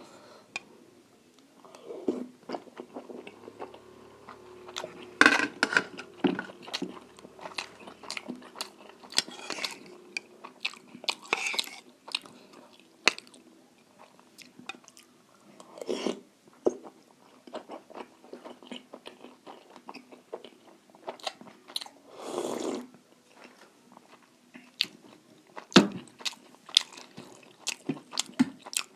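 Close-miked chewing and eating: irregular wet mouth clicks and smacks, with a handful of louder bites spread through the stretch.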